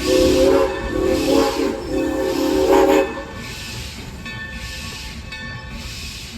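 Steam locomotive whistle sounding a few blasts over about three seconds, a chord of several tones, then cutting off. Background music continues underneath.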